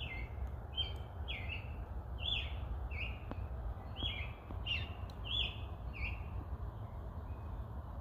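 A woodland bird calling in a quick series of short chirps, about two a second, that thin out near the end, over a steady low rumble.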